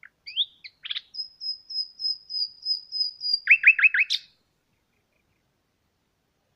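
A songbird singing one phrase: a few short opening notes, then a fast, even high trill, then four loud lower downslurred notes and a closing sharp note, ending about four seconds in.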